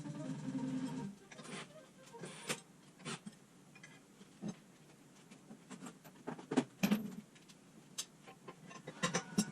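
A steady low hum that stops about a second in, followed by scattered light clicks and knocks, typical of tools and metal parts being handled on a workbench.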